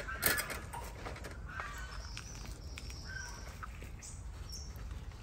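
Small birds chirping in the background, a few short thin high calls, over a steady low outdoor rumble.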